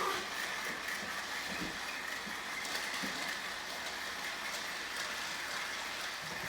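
Several battery-powered TrackMaster toy trains running together on plastic track, a steady whirring of their small motors and wheels.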